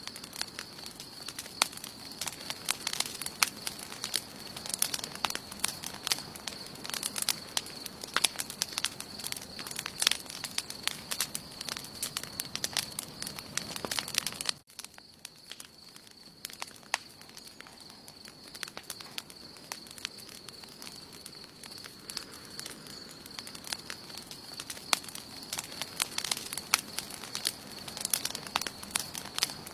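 Wood campfire crackling and popping continuously, with a steady high-pitched tone behind it. About halfway through the sound drops out abruptly for a moment, then the crackling carries on a little quieter.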